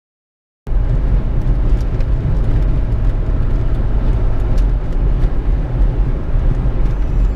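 Steady low rumble of a vehicle driving on the road, cutting in abruptly just under a second in.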